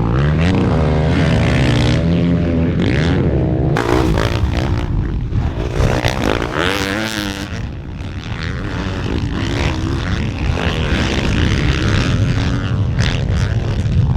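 Motocross dirt bike engines revving hard, rising and falling in pitch as the riders accelerate, shift and back off.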